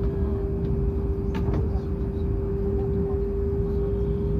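Hokuriku Shinkansen train running at speed, heard from inside the passenger cabin: a steady low rumble with a constant humming tone. A brief click or two comes about a second and a half in.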